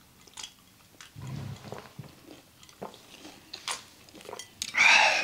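Close-miked chewing and crunching of fried chicken, with scattered short crunches and a brief louder noise near the end.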